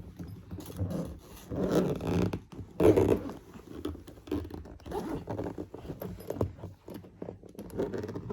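Zipper of an overstuffed travel bag being pulled shut in fits and starts, with scraping and rustling as the packed bag is pressed down; the loudest pulls come about two and three seconds in. The zip strains because the bag is overfull.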